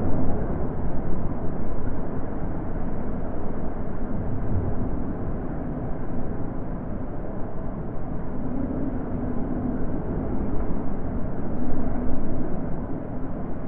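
Wind blowing: a low rushing noise that rises and falls in slow gusts, with the strongest gust about twelve seconds in.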